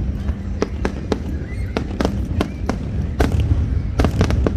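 Aerial fireworks going off in quick succession, a steady stream of bangs and pops with a dense cluster about four seconds in, over a continuous low rumble.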